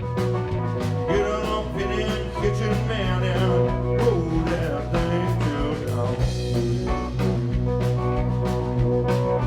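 Live blues-rock band playing an instrumental passage: guitar and drums with a steady beat, with wavering, bending lead notes in the first few seconds.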